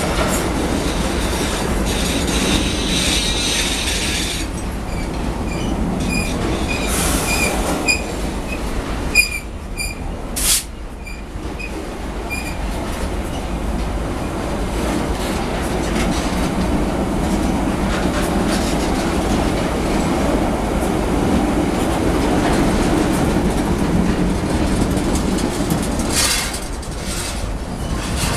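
Freight train of tank cars rolling past at arm's length: steady rumble of wheels on rail. A run of short, high wheel squeals comes about a third of the way in, with one brief sharp screech among them. A few wheel clacks come near the end.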